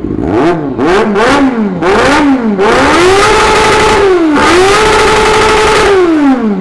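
Honda CB1 NC27 inline-four engine revved on test after engine work. Four or five quick blips of the throttle, then two longer revs held high, the second dropping back toward idle near the end.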